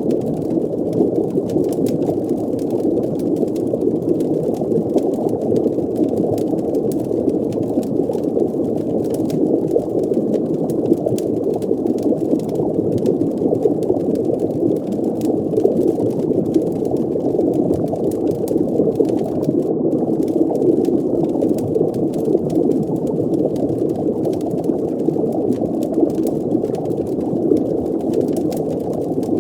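Looping underwater ambience: a steady, muffled deep-water rumble with bubbling, and faint scattered crackles like a fire heard through water.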